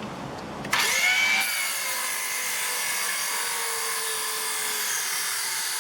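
Bauer 20V cordless 6.5-inch circular saw starting up about a second in and cutting through a 2x4 on a low 1.5 Ah battery. Its whine sags slowly in pitch as the blade loads up in the wood.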